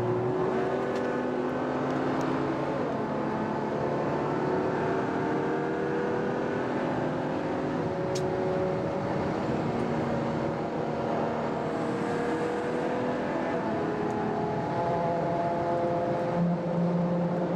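Ferrari FF's V12 engine running while driving, its note rising gently and stepping back down several times as the gears change.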